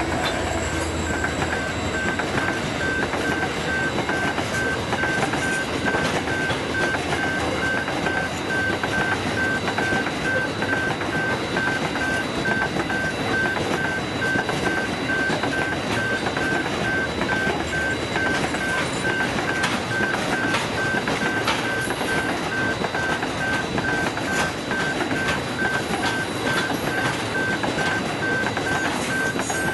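Freight train of hopper wagons rolling past: a steady rumble and clatter of wheels on rail, with a level crossing warning bell ringing in even pulses throughout.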